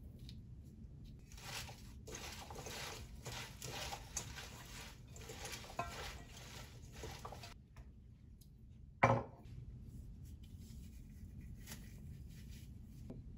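Kitchen food-prep handling noises: a run of light, irregular taps and scrapes of utensils and dishes, then, after a short pause, one louder knock about nine seconds in.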